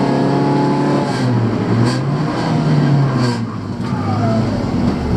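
Honda Civic's 1.3-litre twin-carburettor four-cylinder engine pulling hard, heard from inside the cabin. The engine note dips about a second in, climbs again, then falls away about three and a half seconds in as the throttle comes off.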